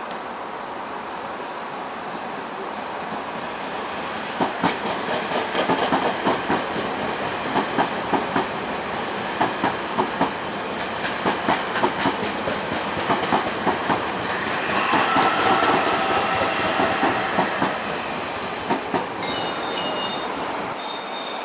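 ITX-Cheongchun electric multiple-unit train passing on curved track: a rising rumble with rapid, uneven clacking of wheels over rail joints, and a wheel squeal about two-thirds of the way through. Near the end, steady high electronic tones come in.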